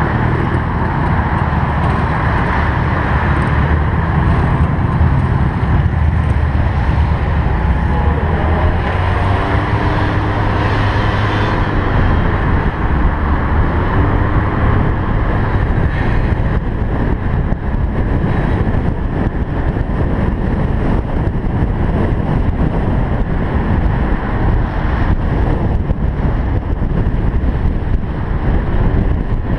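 Cars driving along a street, a steady engine and road noise mixed with wind on the microphone, with a few short wavering tones about ten seconds in.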